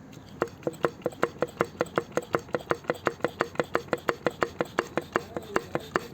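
Worn connecting-rod bearing on the fourth cylinder of a disassembled Toyota 3S engine clacking as the rod is rocked back and forth by hand, about four to five sharp metallic knocks a second starting half a second in. The excess play is the source of the rod knock, caused by neglected engine oil.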